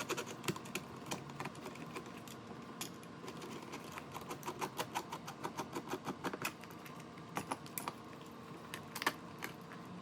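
Irregular light metallic clicks and clinks, some in quick runs, from hand tools and metal hardware being worked at an electrical switch box, over a faint steady hum.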